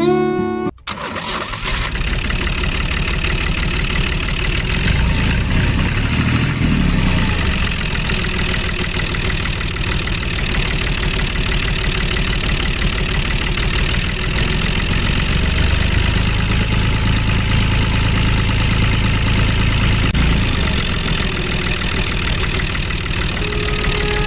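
Engine of a mini tractor running steadily with a fast, even chugging pulse, after a snatch of guitar music that cuts off under a second in.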